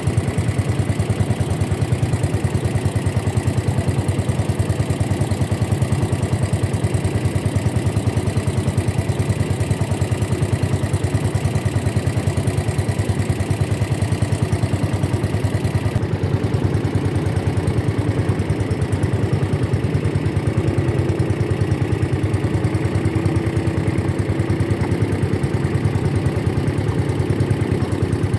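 Boat engine running steadily at a fast, even beat, its tone dulling slightly a little past halfway.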